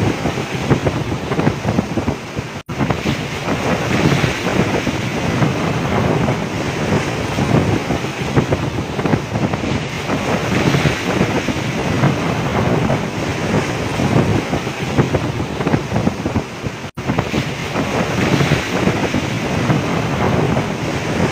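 Strong wind buffeting the microphone over the rush and crash of storm waves around a fishing boat at sea, a loud continuous noise broken by two very brief dropouts.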